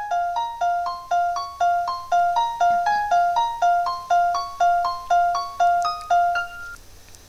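Instrumental break in a pop backing track: a piano-like keyboard plays a fast arpeggio, about four notes a second, a repeated lower note alternating with climbing higher ones. It stops shortly before the end.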